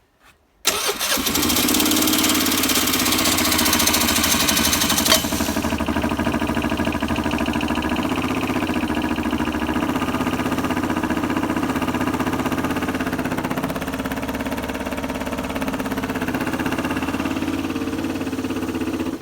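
Vespa ET4 scooter's electric starter cranking its four-stroke single-cylinder engine in one long, continuous spell of about eighteen seconds, without the engine catching, after the scooter has sat unused for a year. A harsh high hiss over the first five seconds drops away, leaving a steadier, evenly pulsing cranking sound.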